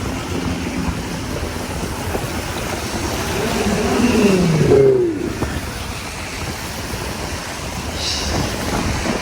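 Car driving through city traffic: a steady road and engine rumble. About four seconds in, a short sound falls in pitch and is the loudest moment.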